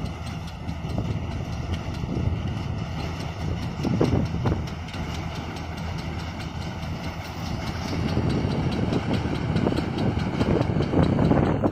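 Combine harvester running steadily, a low engine drone with faint steady higher machine tones above it.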